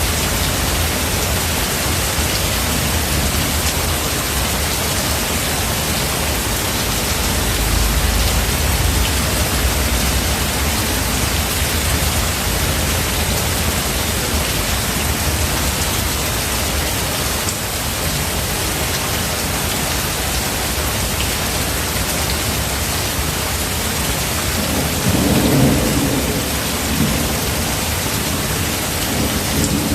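Steady rain with thunder. A low rumble swells about a quarter of the way in, and a louder roll of thunder breaks near the end.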